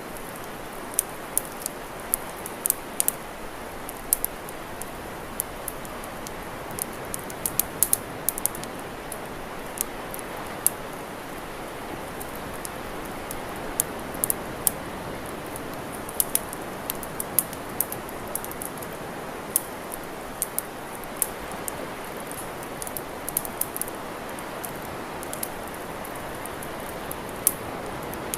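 Campfire crackling, with irregular sharp pops and snaps, several a second at times, over a steady rushing noise.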